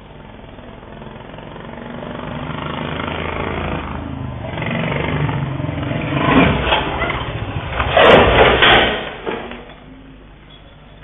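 Motorcycle with a loud aftermarket racing exhaust approaching and revving, building up over several seconds and loudest about eight seconds in, then fading quickly.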